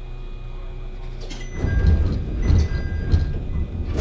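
Inside an electric commuter train car: a steady low hum, then from about a second and a half in a loud, uneven low rumbling with knocks and clatter and a few faint short tones.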